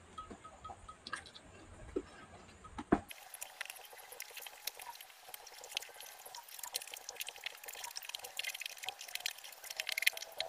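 Close-up wet eating sounds: chewing and lip smacking while eating with the hands, a dense run of small wet clicks. About three seconds in the low rumble drops out and the clicks come thick and fast.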